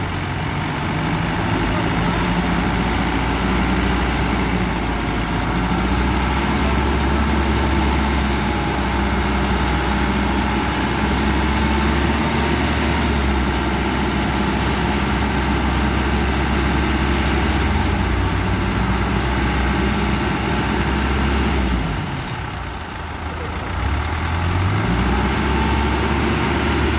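Diesel tractor engine running hard under load while the machine is bogged in wet mud. About two-thirds of the way through the revs sag, then climb back up.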